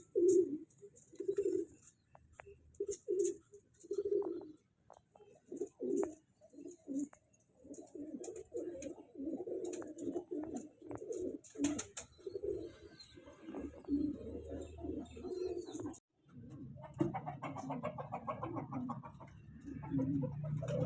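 Pigeons cooing: a run of low coos with short gaps, growing denser partway through, then breaking off suddenly before a busier mix of lower sounds.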